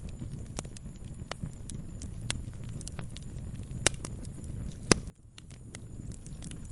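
Wood fire burning in a fireplace: a low steady rumble with irregular sharp crackles and snaps, and two louder pops about four and five seconds in.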